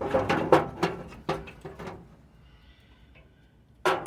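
A quick run of hard clattering knocks and clicks in the first two seconds, then a faint thin whine, then another cluster of knocks near the end.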